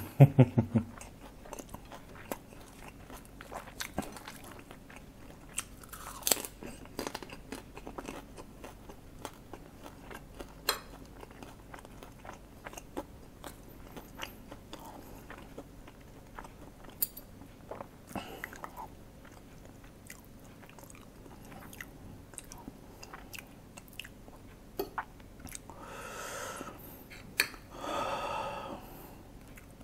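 A person eating fried rice: close chewing and crunching, with scattered sharp clicks of a metal spoon and fork against the plate. There are two longer, louder patches of sound near the end.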